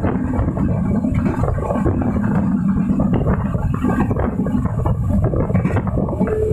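Passenger train running at speed: a steady, loud rumble of wheels on the rails with irregular rattling of the carriage.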